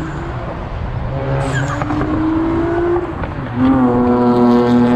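Car engine revving: the pitch climbs for a couple of seconds, then after a short dip the engine is held at high revs, loud and steady, near the end.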